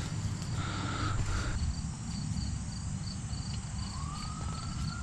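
Crickets chirping steadily, about three chirps a second, over a low background rumble; a faint tone rises in pitch and holds near the end.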